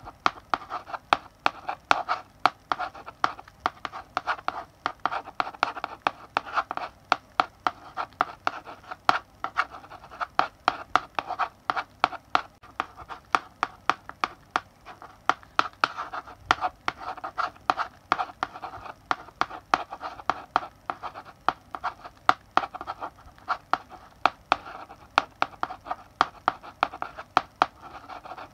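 Chalk writing on a blackboard: continuous scratchy strokes with frequent sharp taps as the chalk strikes the board at the start of each stroke, a few per second, in a small room.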